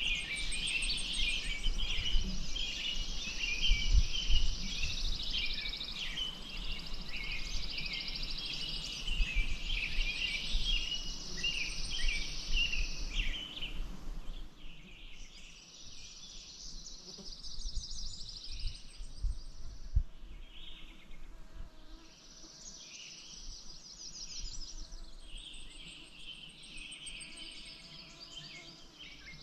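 Several songbirds singing at once in a continuous dawn-chorus-like tangle of overlapping songs and rapid trills, busier in the first half and thinning a little after the middle, over an uneven low rumble.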